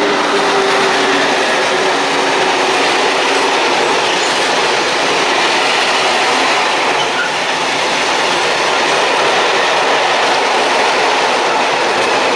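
Train hauled by an electric locomotive passing close at speed, a steady loud rush of wheels on rails. A faint whine from the locomotive is heard in the first couple of seconds as it goes by.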